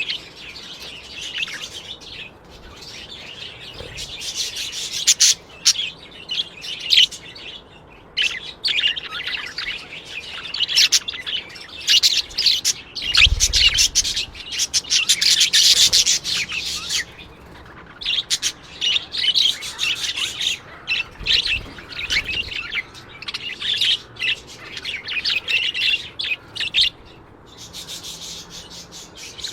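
Birds chirping and chattering in quick, dense bursts of high twittering calls, with brief lulls between bursts.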